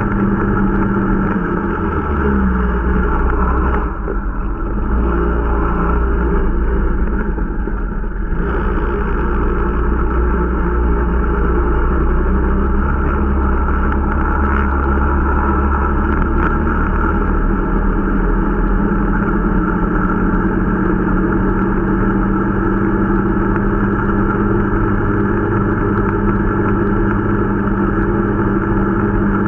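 Irbis Dingo T125 snowmobile's 125 cc single-cylinder four-stroke engine running under way during its break-in. It eases off briefly about four seconds in, picks back up about eight seconds in, then runs steady.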